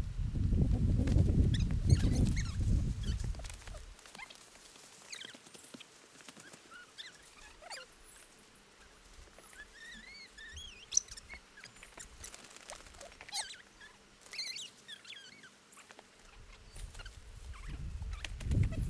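Outdoor ambience: a gust of wind rumbles on the microphone for the first few seconds, then birds chirp sporadically over scattered light ticks, and the wind rumble returns near the end.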